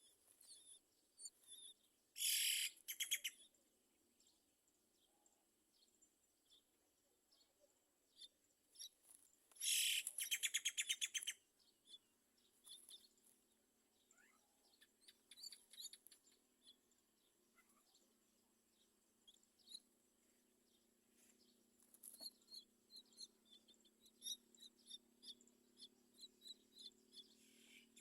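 Myna birds calling at the nest: two loud bursts of fast, harsh, rapidly repeated calls, one about two seconds in and one about ten seconds in, then scattered short chirps.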